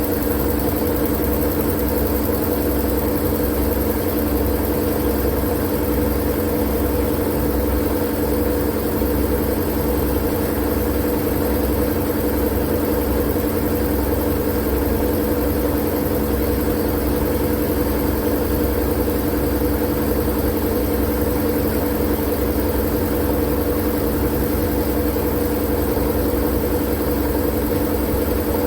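Steady white-noise sleep sound: an even, unchanging hiss with a low, machine-like hum under it.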